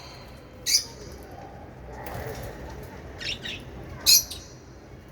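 Pet lovebirds giving short, high-pitched chirps: one about a second in, then a few in quick succession near the end, the loudest about four seconds in.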